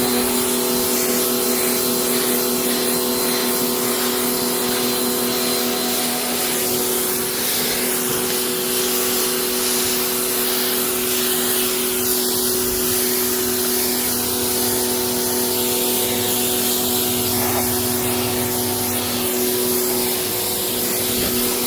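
Electric pressure washer running with its water jet spraying: a steady motor-pump hum under a hissing spray, which cuts off suddenly at the end.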